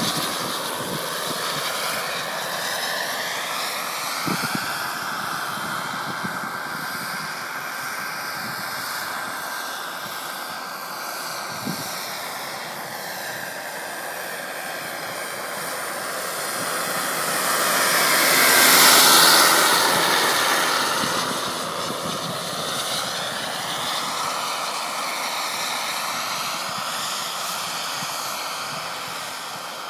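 Radio-controlled model helicopter flying, its engine and rotor whine steady, swelling loudest as it passes close about two-thirds of the way through, then fading back.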